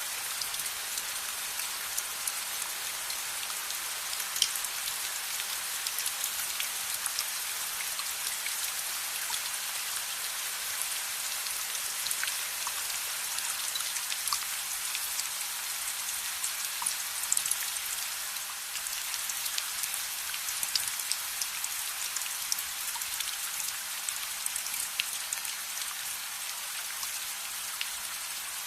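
Steady rain, a dense even hiss, with many small sharp ticks scattered throughout.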